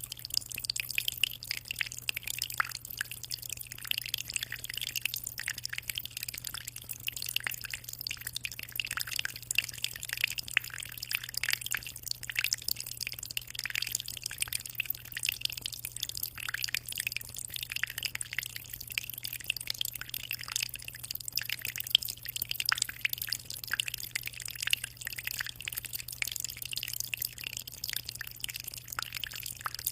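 Aquarium water trickling and splashing steadily as the tank's flow breaks the surface, a continuous patter of small drips, over a steady low hum.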